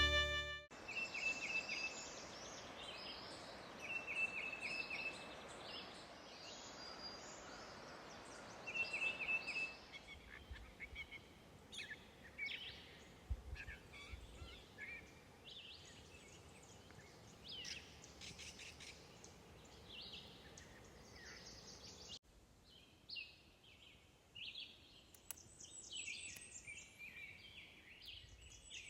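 Several songbirds singing and calling in woodland, including a rapid trill repeated a few times early on. A soft steady hiss lies under the first ten seconds.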